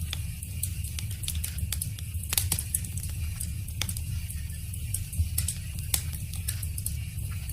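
Wood fire crackling: frequent irregular sharp pops and snaps of burning wood over a steady low rumble of flames.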